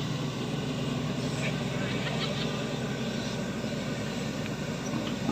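Shantui excavator's diesel engine running steadily, with a few faint knocks over the drone.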